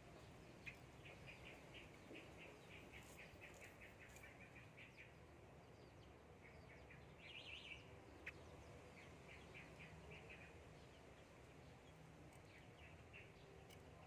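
Faint, rapid runs of short high chirps from a small bird, several a second, coming in bursts of a few seconds with pauses between, plus a few soft clicks.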